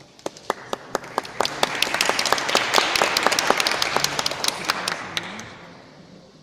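Audience applauding: a few separate claps at first, swelling into full applause, then dying away near the end.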